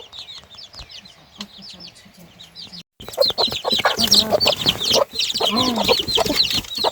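Domestic chicks peeping rapidly and continuously, many short high falling peeps overlapping, with a hen clucking among them. The sound cuts out briefly about three seconds in and comes back louder.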